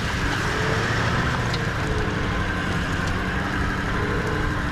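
Vehicle driving along, with steady engine and road noise.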